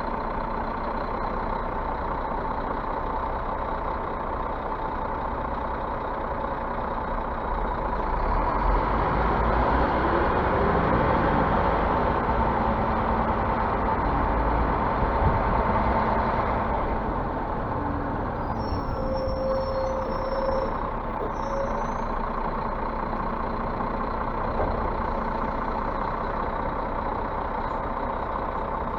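Scania bus running: steady engine noise that swells louder from about eight seconds in and eases back around seventeen seconds. A few brief high-pitched squeaks come about twenty seconds in.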